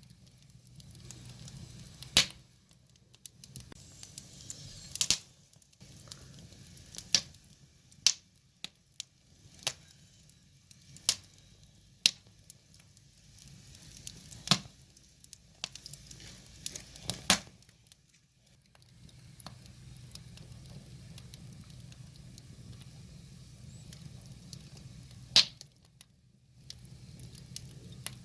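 Firewood burning in an open fire: irregular sharp crackles and pops over a low steady rumble, with a longer stretch without big pops in the last third.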